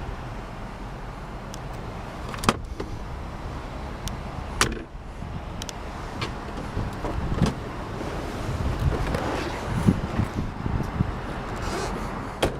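A few sharp knocks and clunks with handling and rustling between them, the sound of car body parts such as a door or a T-top panel being moved, over a steady low hum.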